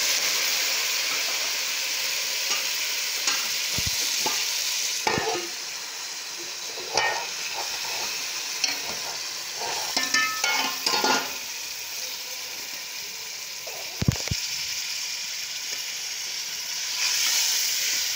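Chicken with garlic, ginger and tomato frying in a pan with a steady sizzle, while a spoon is stirred through it, scraping and knocking against the pan now and then.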